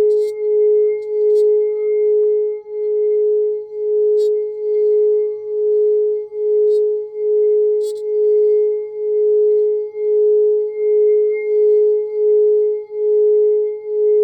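A 6-inch black tourmaline crystal singing bowl sounds a steady ringing tone. The tone swells and fades evenly, about one and a half times a second. A few faint high ticks sit on top of it.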